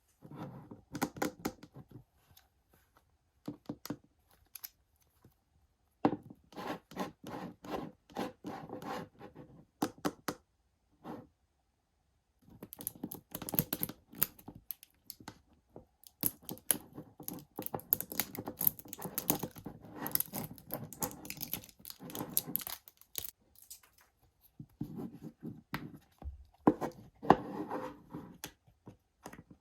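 Toy packaging being torn open and handled by hand: scratchy tearing and crinkling in irregular bursts, with short pauses between them.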